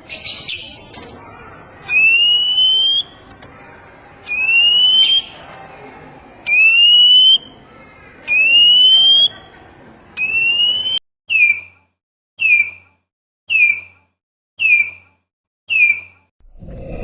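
A bird's whistled call repeated: a clear rising whistle about every one and a half to two seconds, then, after about eleven seconds, a run of short falling notes about once a second.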